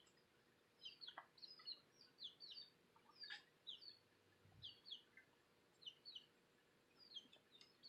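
Faint bird chirping: short, high, falling chirps, many coming in quick pairs, repeating every half second or so.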